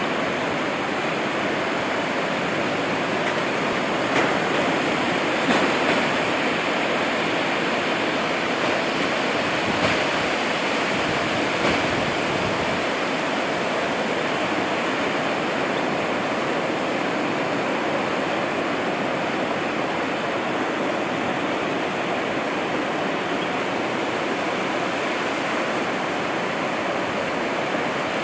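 Steady, even rush of ocean surf and rain, with a few faint taps in the first half.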